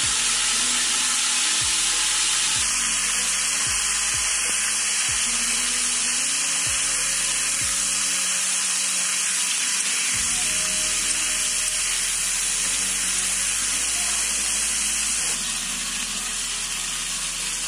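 Chopped raw papaya, potato and beans sizzling steadily in hot oil in a kadai while being stirred, with light knocks of the spoon against the pan over the first several seconds. The sizzle eases slightly near the end.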